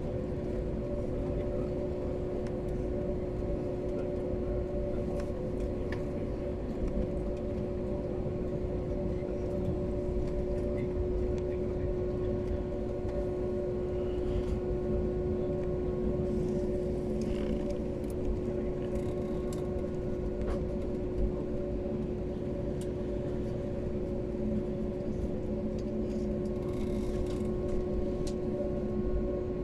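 Airbus A330 engines heard from inside the cabin: a steady jet drone with a low rumble and a constant hum.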